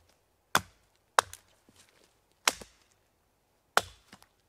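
Axe chopping into rain-soaked wood: four sharp blows, irregularly spaced.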